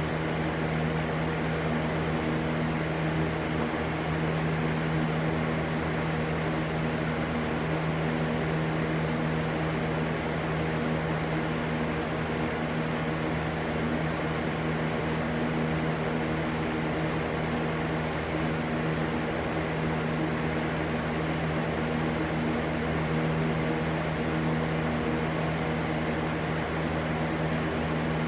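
Steady rushing white noise with a low, even hum underneath, unchanging throughout.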